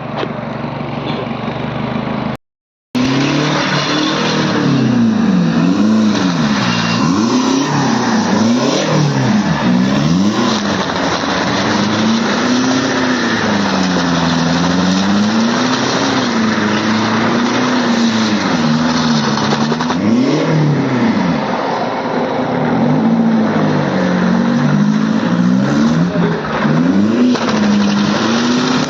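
Mercedes-Benz C220 turbo diesel engine held at high revs, the pitch rising and falling over and over, with a dense rushing noise over it while the car does a burnout. The sound drops out for about half a second near the start.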